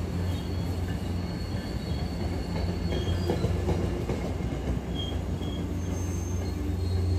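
MBTA commuter rail train, coaches with a diesel locomotive, rolling slowly along the platform as it pulls into the station. A steady low drone runs throughout, with faint high wheel squeal.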